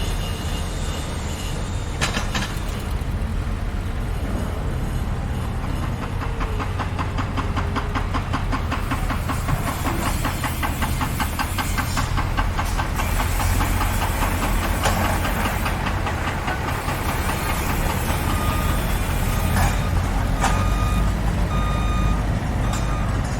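Heavy construction machinery running with a steady low diesel rumble and a fast, even clatter through the middle. Near the end a reversing alarm beeps at intervals of about a second.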